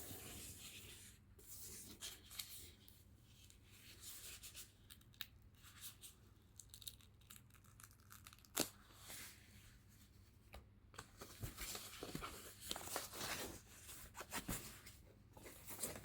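Packaging being torn and crinkled by hand while unwrapping a robot vacuum's docking station, with scattered light clicks and knocks of the plastic dock being handled; one sharper click about halfway through.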